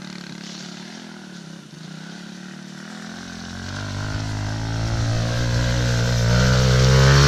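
Small motorcycle engine running at steady revs, growing steadily louder as the bike comes closer from about three seconds in and loudest near the end.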